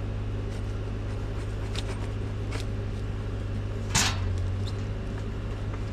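A steady low engine hum, with a few light clicks and one sharp knock about four seconds in, typical of metal parts being handled while the band saw blade is slackened.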